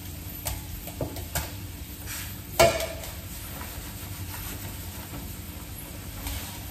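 Shredded-potato galette frying in olive oil in a pan, a soft steady sizzle. Over it come a few light knocks and one sharp metallic clank of kitchenware about two and a half seconds in, the loudest sound.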